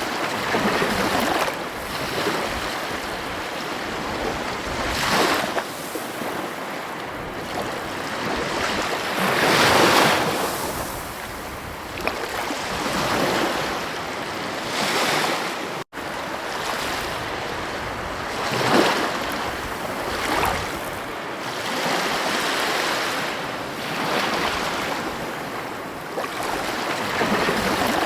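Ocean surf: waves breaking and washing up the shore, the rush swelling and easing every few seconds. The sound cuts out for a split second about sixteen seconds in.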